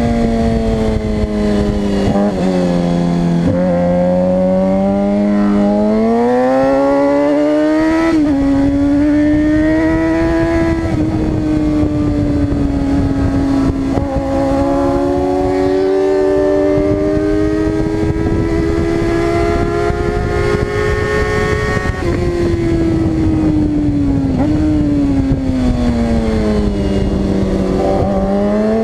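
Suzuki GSX-R 600 inline-four engine at high revs on a race track, its pitch climbing and then dropping several times as it is shifted through the gears, over a steady rush of wind noise.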